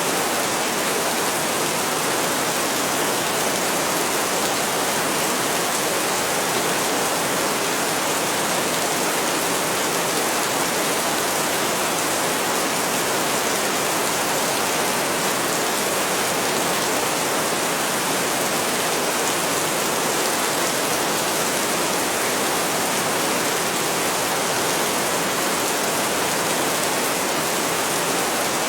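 Steady heavy rain, an even hiss with no let-up and no thunder.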